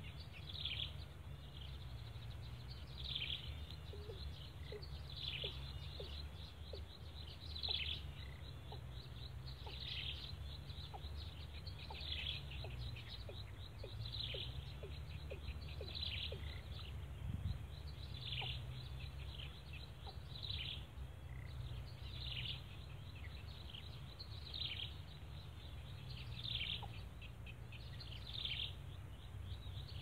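A bird chirping over and over, a short high call about every two seconds, over a steady low background rumble.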